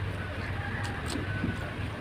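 Close-miked chewing of a mouthful of pork fry and rice, with a few short wet mouth clicks about a second in, over a steady low hum.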